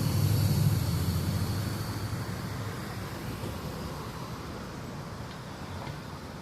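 Rumble of a switching train's engine, low and steady, fading away over the first few seconds as the train moves off along the track.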